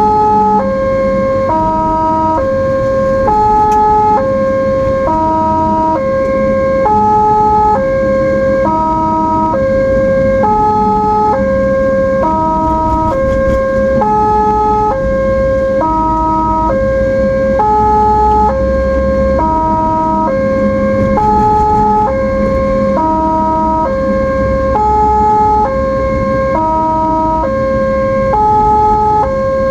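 Ambulance siren sounding continuously in an alternating-tone pattern, switching back and forth between pitches, each tone held under a second. A low vehicle and road rumble runs underneath.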